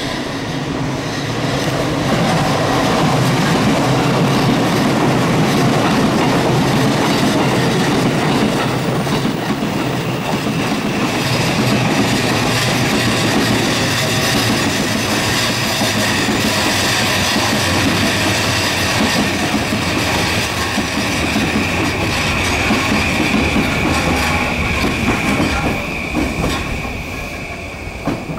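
JR East E235 series electric train pulling into a station, its wheels running loudly over the rails as it slows. A high steady squeal comes in over the last third, and the noise falls away near the end.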